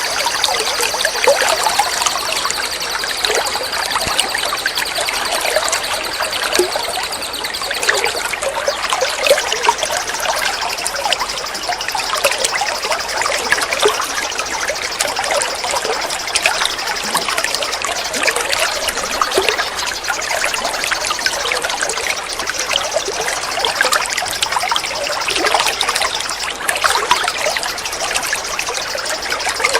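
Water trickling and splashing continuously in a steady flow. A steady, high, thin sound runs over it and shifts slightly about eight seconds in.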